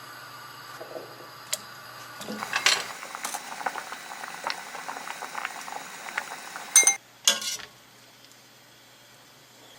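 Liquid in a pot boiling and bubbling, a fast crackle of small pops that sets in a couple of seconds in. Near the end come two sharp metallic clinks of a utensil against cookware, and the bubbling stops.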